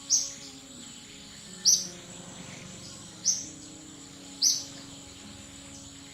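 Sharp, high-pitched animal chirps, four of them about a second and a half apart, over a steady high-pitched whine.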